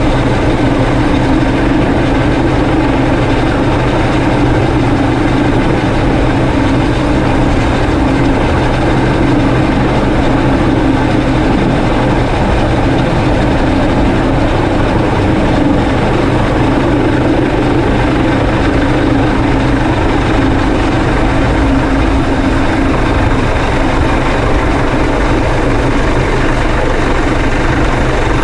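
Coast Guard helicopter running steadily overhead during a hoist: a loud, unbroken rotor and turbine drone with a constant low hum.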